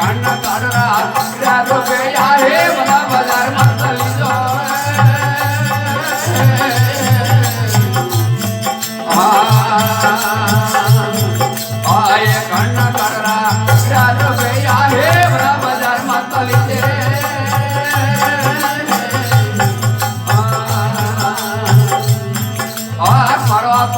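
Rajasthani devotional folk bhajan music: melodic phrases that bend in pitch, sung or played, over the steady low drone of the desi veena, with light hand percussion keeping time.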